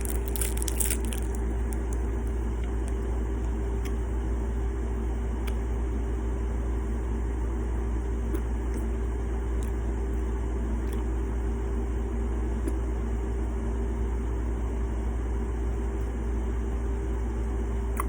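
Hard candy crunching between the teeth for about the first second, then a steady low hum with a held tone and a few faint ticks.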